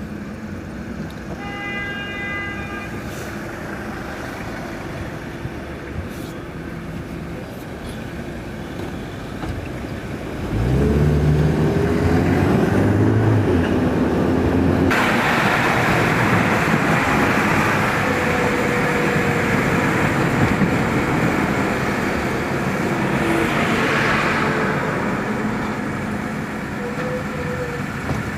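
Car engine idling in traffic, then picking up and accelerating away about ten seconds in, its pitch climbing. Steady road and wind noise follows while driving. A short beep sounds about two seconds in.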